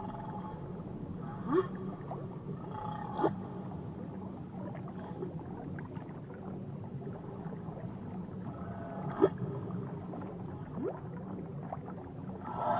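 Whale calls heard underwater: several short rising upsweeps and a few held tones over a steady low underwater rumble. Louder, sustained calls swell in near the end.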